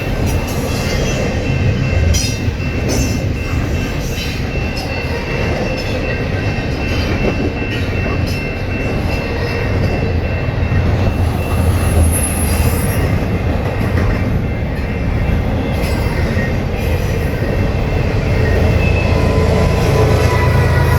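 A very long train of over 200 cars rolling past: a steady low rumble of wheels on rails, with thin, steady wheel squeal ringing above it.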